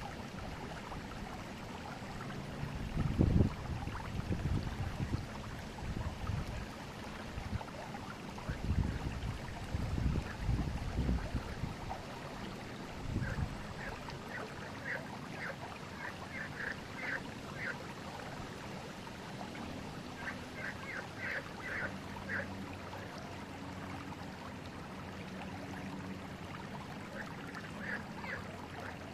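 Forest river water flowing steadily, with deep rumbling surges in the first half. In the second half a bird calls in quick runs of short notes, three times.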